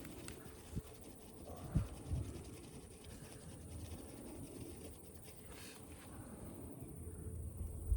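Small wood fire burning in a wood-burning camp stove, with faint crackling and a couple of low thumps about two seconds in.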